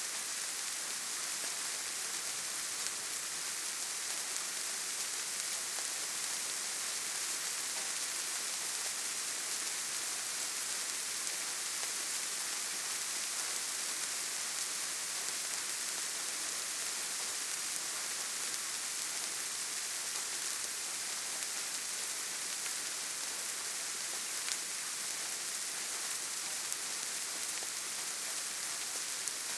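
Steady rainfall: an even hiss of rain with a few scattered louder drops.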